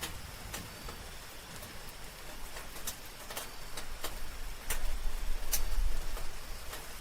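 Soft rain, with single drops ticking sharply now and then on a hard surface. Under it runs a faint steady high tone, and about five seconds in a low rumble swells briefly.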